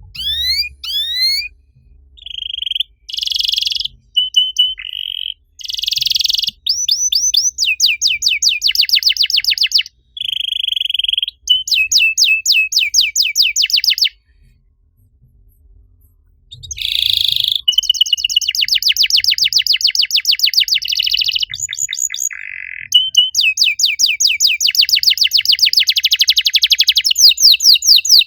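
Domestic canary singing a long song of fast, high-pitched trills and rolling repeated notes in phrases, with a pause of about two seconds halfway through.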